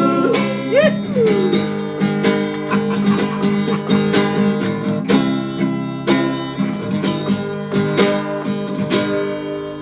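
Instrumental break in a song: acoustic guitar strumming chords in a steady rhythm, with no singing.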